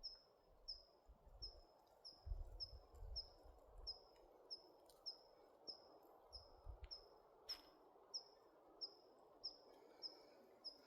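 A small bird repeating one short, high call that drops slightly in pitch, evenly about every two-thirds of a second, heard faintly. Low gusts of wind rumble on the microphone now and then.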